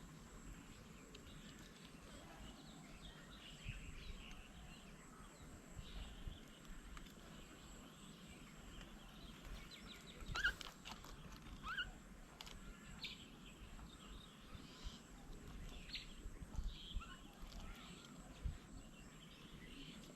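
Faint outdoor ambience with scattered short bird chirps and calls. The loudest sound is a brief sharp one about halfway through.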